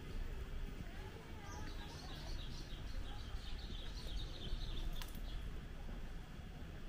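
A bird singing a quick run of short, high chirps for a couple of seconds, over a steady low outdoor rumble.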